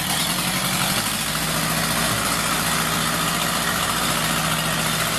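Tractor engine running steadily, coming up in loudness right at the start and then holding an even hum.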